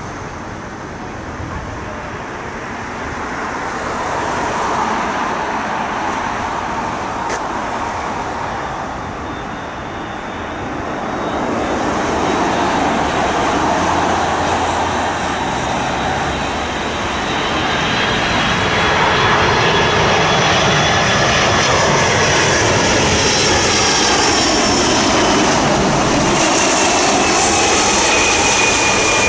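Jet airliner's engines on approach to land, growing steadily louder as it nears. High engine whines come in about halfway through, and one falls in pitch near the end as the aircraft passes.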